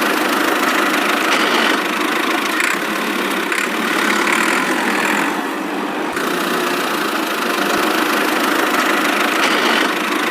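A toy vehicle's engine sound running steadily, a continuous mid-pitched mechanical hum with no deep rumble.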